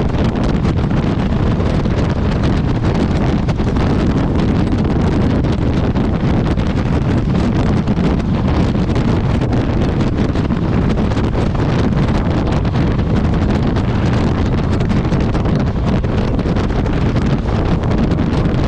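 Loud, steady wind buffeting on the microphone of a motorcycle riding at road speed, with the bike's engine and tyre noise running underneath.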